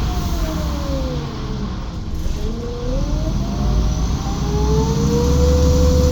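Menarini Citymood 12 CNG city bus running under way, its drivetrain whine falling in pitch as it slows over the first two seconds, then rising again as it pulls away, with the engine getting louder toward the end.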